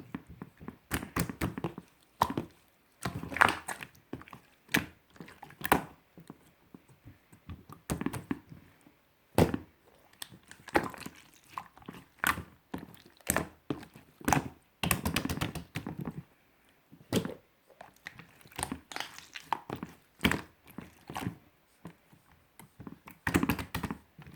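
Hands squishing, poking and pressing slime, giving irregular sharp clicks and pops between short squelching bursts.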